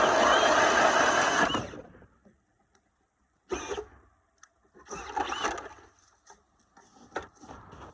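Ridgid 18-volt cordless hammer drill spinning a 6-inch Swede-Bore hand ice auger into the ice. The drill runs for about a second and a half, then stops. Two shorter bursts follow a few seconds later, then a few light knocks near the end.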